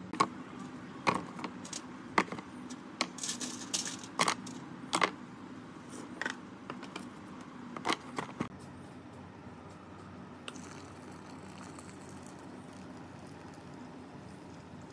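Irregular sharp clicks and clinks of small metal parts and tools being handled during work on a drywall screw gun, about a dozen over the first eight seconds, then only a faint steady hiss.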